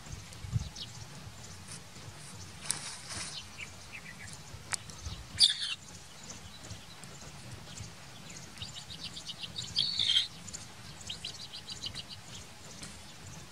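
Birds chirping: short high calls scattered throughout, one louder sharp call about five and a half seconds in, and two quick runs of rapidly repeated notes near the end, over a faint steady outdoor hiss.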